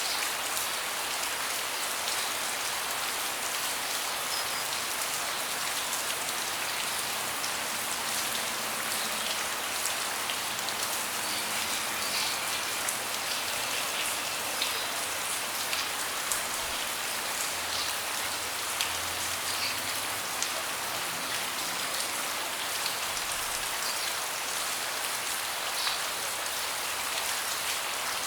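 Steady rain: a dense, even hiss with many scattered sharp ticks of single drops hitting nearby surfaces.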